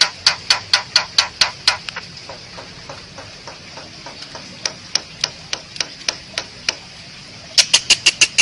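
Asian pied starling (jalak suren) calling: a rapid series of sharp, clicking notes about four a second. The notes turn softer and sparser about two seconds in, then come loud and quick again near the end.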